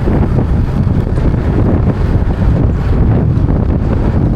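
Strong wind buffeting the microphone over the low rumble of a moving vehicle on the road.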